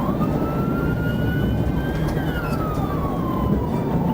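Police siren in wail mode: one slow rise in pitch over about two seconds, then a slow fall. Steady engine and road noise from the pursuing patrol car runs underneath.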